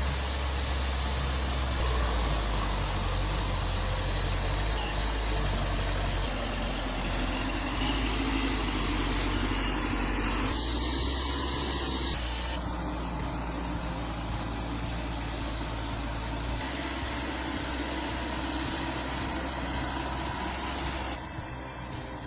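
Diesel engine of an LKT-81 forestry skidder running, heard across several cut-together clips, so the engine sound changes abruptly a few times.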